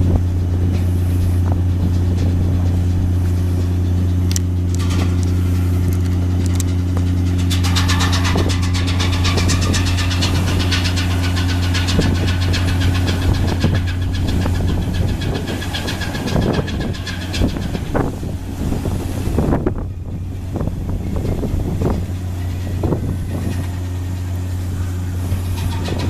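Steady low drone of the Yuri Maru ferry's diesel engine running. A rapid clicking rattle with a faint whine sits on top of it from about eight seconds in until roughly seventeen seconds.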